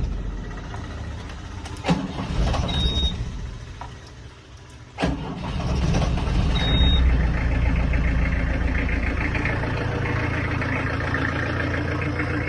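Mahindra Armada Grand's diesel engine being cold started after its glow plugs have heated: engine sound fades away after a sharp click about two seconds in, then a second click about five seconds in and the engine catches and settles into a steady idle. Short high beeps sound three times.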